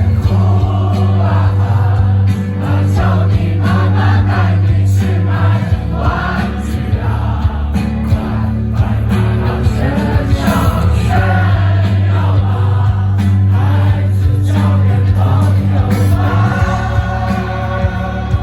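Live rock band playing a song: strong steady bass and drums, with guitars under sung vocals that sound like many voices.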